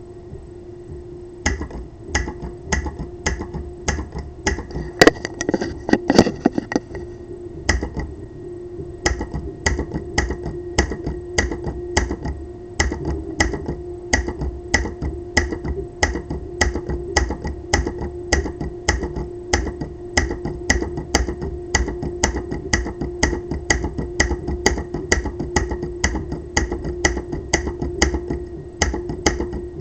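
Solenoid of a 3D-printed pulse-propulsion device clicking rhythmically, about two sharp clicks a second, over a steady low hum. The clicks start about a second and a half in, with a few louder knocks soon after.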